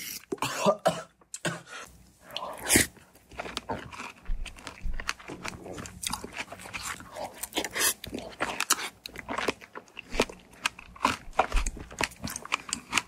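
Close-miked chewing of strawberries with whipped cream: bites and chewing with many small, irregular mouth clicks, and a louder burst about three seconds in.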